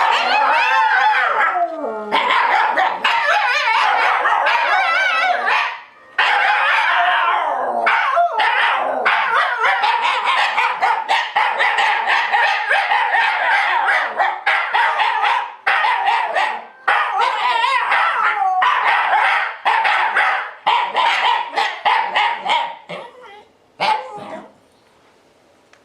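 Shiba Inu dogs howling in long, wavering cries mixed with yips and short barks. The howls become choppier after the first several seconds and stop shortly before the end.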